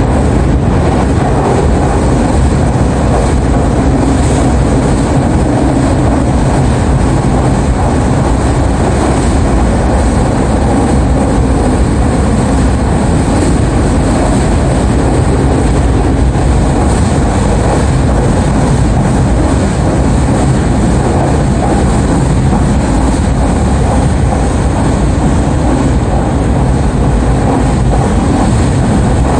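Nankai Airport Line train running at steady speed across a steel truss bridge, heard from inside the carriage: a constant rumble of wheels on rail and car body, with no change in pace.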